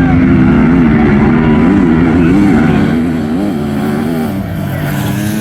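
Engines of racing dirt bikes and ATVs running hard at full throttle, loud and steady with a pitch that wavers up and down. They ease off a little near the end.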